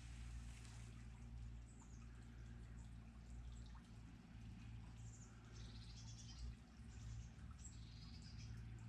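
Faint outdoor birdsong: scattered short high chirps and calls, with a brief burst of warbling a little past the middle, over a steady low hum.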